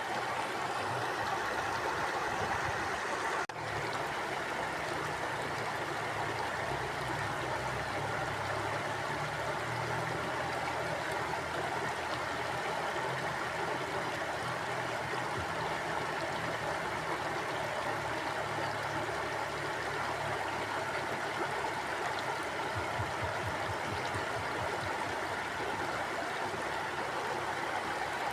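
A shallow river or stream flowing steadily, its water rushing and gurgling over rocks in an even, unbroken wash, with a momentary dip in level about three and a half seconds in.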